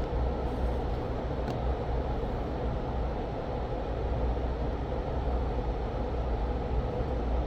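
Steady blowing fan noise with a low hum underneath, running evenly without change.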